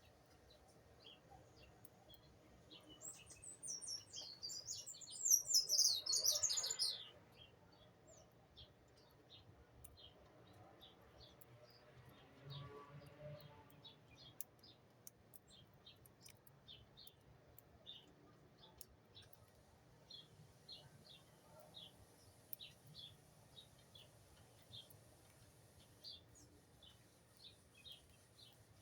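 Small birds chirping: a loud run of quick, high, falling notes a few seconds in, then soft short chirps repeating every fraction of a second.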